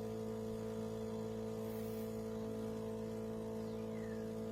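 De'Longhi Rivelia automatic espresso machine humming steadily as its pump pushes out an extra portion of coffee into the cup.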